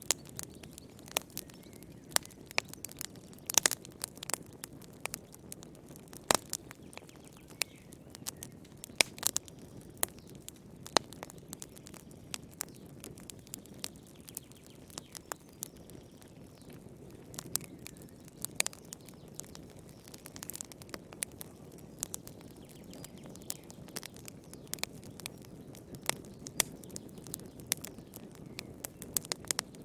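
Campfire burning: wood crackling and popping in irregular sharp snaps, several a second and some much louder than the rest, over a soft, steady low rush of flame.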